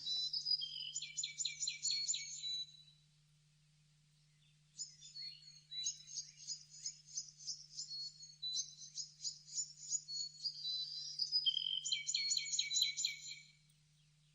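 Bird song: high, rapid runs of repeated chirping notes in two bouts, the first stopping about three seconds in and the second starting about two seconds later and running on until near the end. A faint steady low hum lies underneath.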